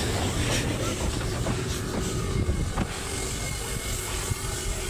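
Train running on the rails: a steady low rumble with scattered clicks from the wheels.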